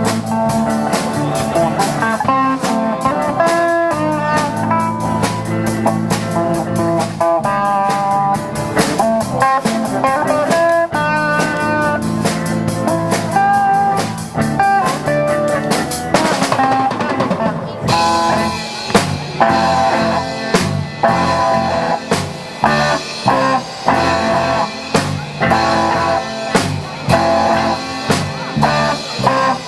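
Live band playing an instrumental passage on guitar and drum kit. About halfway through the playing changes to a choppier section with evenly spaced accented hits.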